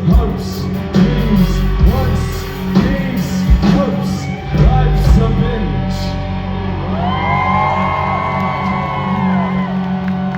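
Rock band playing live: loud, uneven drum hits through the first half, then held notes that bend and waver in pitch, with some shouting.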